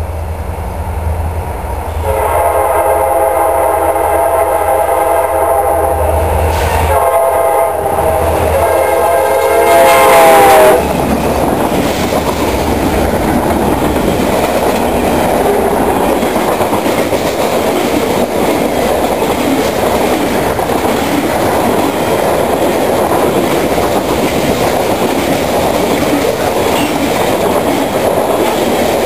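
Diesel freight locomotive's multi-chime air horn blowing two long blasts, the second louder as the train closes in and cutting off abruptly, then the CSX freight train passing close by: a steady heavy rumble with wheels clacking over the rail joints as the freight cars roll past.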